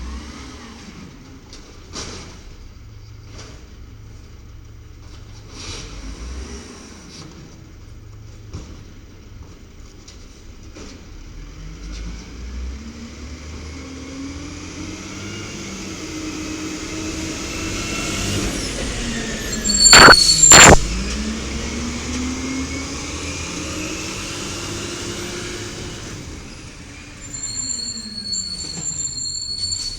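Diesel WhiteGMC garbage truck's engine running, building up to its loudest about two-thirds of the way in and then dropping away, its pitch rising and then falling. Two sharp, very loud bangs come close together at the loudest point.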